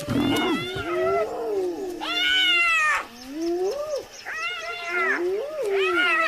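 Several spotted hyenas calling over one another in a standoff with lions, with a string of high, rising-and-falling squeals and whoops, each about half a second to a second long.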